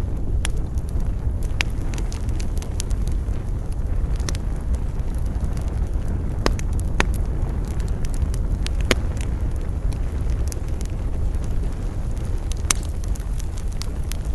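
Wood campfire crackling, with scattered sharp pops over a steady low rumble of wind.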